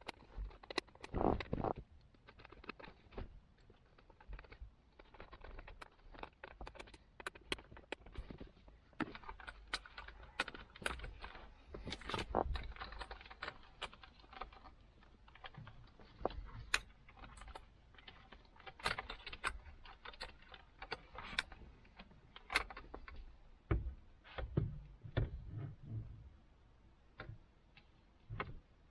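Irregular light clicks and clatter of hand tools, screws and plastic trim parts being handled, with a few louder knocks about a second in and near the end.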